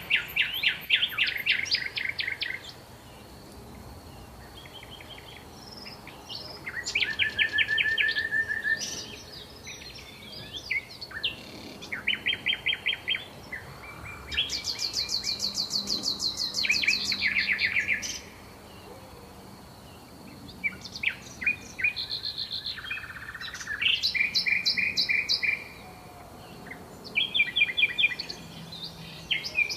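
Songbirds singing: phrases of rapid repeated trilled notes, each one to three seconds long and coming every few seconds. A faint steady high tone runs underneath.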